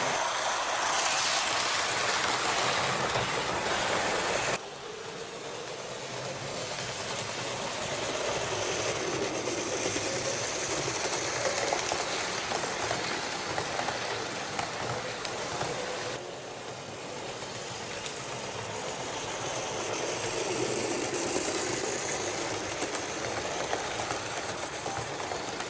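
H0-scale model trains running on track: motor whine and wheel rumble that swell and fade as the trains pass, with the sound changing abruptly twice.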